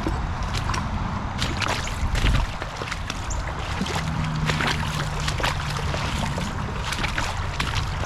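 Shallow creek water splashing and trickling with many small sharp clicks and knocks, as of stones and metal moving underfoot and under the magnet, over a constant low rumble of wind and handling on the microphone. A louder thump comes about two seconds in, and a low steady hum sounds for about two seconds midway.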